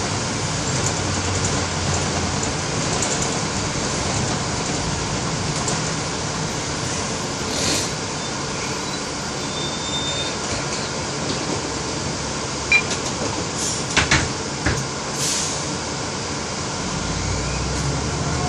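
Steady engine and road noise heard from inside a moving bus, with a low engine hum that grows stronger near the end. A few short sharp knocks or rattles sound together about two-thirds of the way through.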